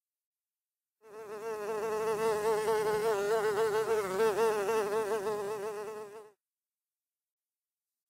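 Fly buzzing: a steady buzz with a slightly wavering pitch, fading in about a second in and fading out after about five seconds.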